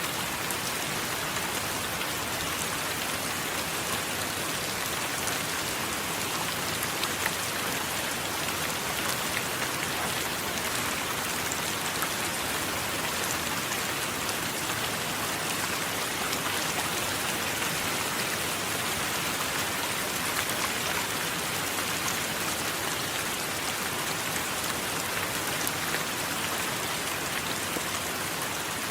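Steady heavy rain falling, a dense even hiss with many small drop ticks scattered through it.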